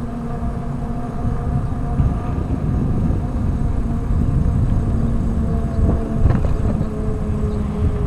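Wind rumbling on the microphone while riding the Heybike Explore e-bike uphill, with the steady whine of its electric motor working at low pedal assist. A couple of clicks sound about six seconds in.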